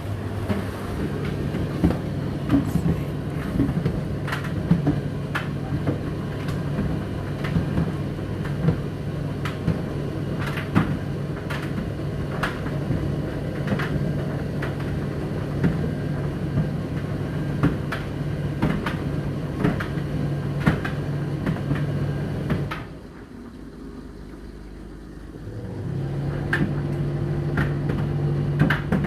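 Condenser tumble dryer running: a steady motor hum with frequent clicks and knocks of the load tumbling in the drum. Near the end the motor stops for about three seconds, then starts again.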